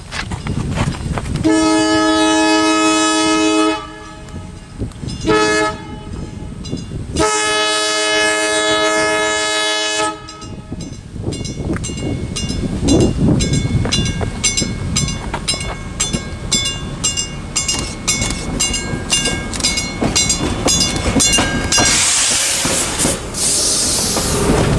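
An approaching train's locomotive horn sounds a long blast, a short one and another long one. The locomotive bell then rings steadily as the train nears. About 22 seconds in, the locomotive passes close with a loud rush, followed by the clickety-clack of bilevel coach wheels over the rail joints.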